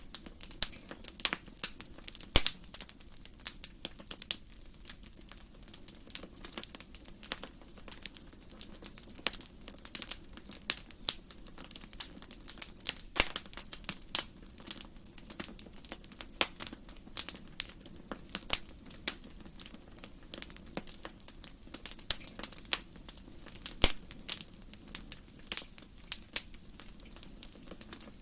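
Wood fire burning in a fireplace: irregular sharp crackles and pops over a low steady hiss of the flames.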